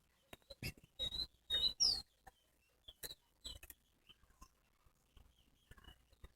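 A towa-towa seed finch giving short, high chirps and twitters, with a cluster of brief, louder rustling noises about one to two seconds in.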